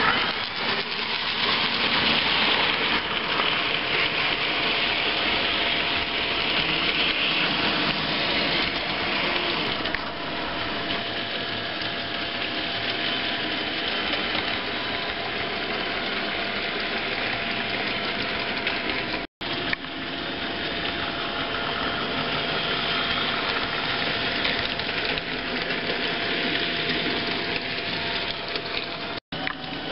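HO-scale model trains running: a steady electric motor hum with the rolling rattle of metal wheels on the track. The sound drops out for an instant twice, about two-thirds of the way in and again near the end.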